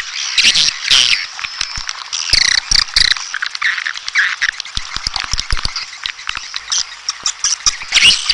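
Edible-nest swiftlets calling in a dense chorus of rapid, overlapping twittering chirps mixed with many sharp clicks.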